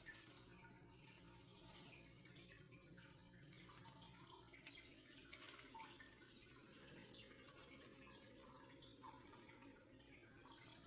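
Near silence: faint room tone with a low steady hum and scattered faint small ticks.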